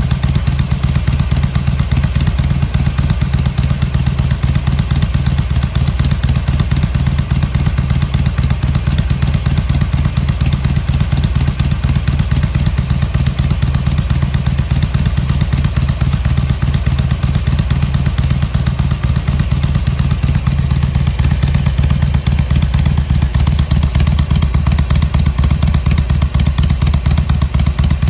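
Harley-Davidson Iron 883's air-cooled 883 cc V-twin idling steadily through its stock exhaust with drilled baffles, a loud, even low pulsing.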